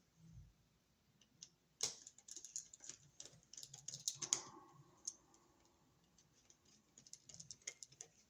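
Faint, scattered clicks and scrapes of hand tools working a wire loop onto a wall receptacle's brass terminal screw, with a sharper click about two seconds in and a short metallic ring about four seconds in.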